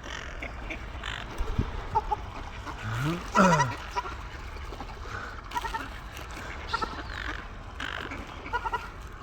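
Birds calling repeatedly in short, harsh calls; the loudest call comes about three and a half seconds in, its pitch sweeping up and then down.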